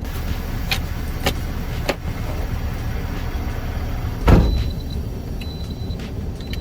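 Semi truck's engine idling with a steady low rumble, heard from inside the cab. Three sharp clicks come in the first two seconds, then a heavy thump about four seconds in, followed by short, high-pitched beeps.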